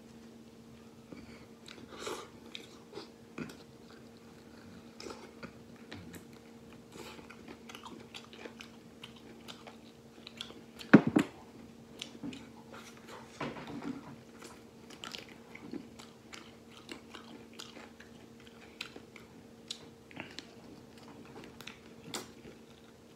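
Close-up mouth sounds of a person eating braised duck wings: chewing, biting and gnawing meat off the bones, with wet smacks and small crunches. A steady low hum runs underneath, and a single loud knock stands out about halfway through.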